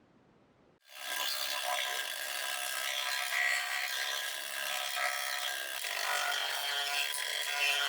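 Steady abrasive rubbing on a model truck part, as in sanding or filing. It starts abruptly about a second in.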